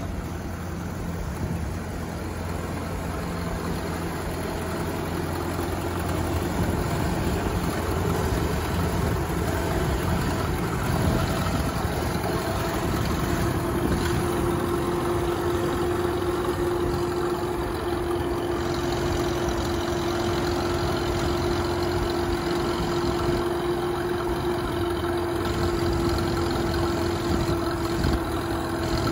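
Propane-fuelled engine of a Case 830 Comfort King tractor running steadily, growing a little louder over the first few seconds. A steady whine comes in about halfway through.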